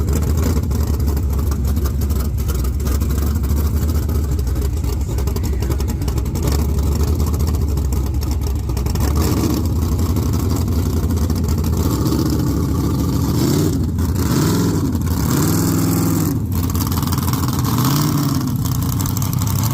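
555 cubic-inch big-block Chevy V8 drag engine idling with a rough, choppy rumble, then revved in several short rising-and-falling blips during the last several seconds.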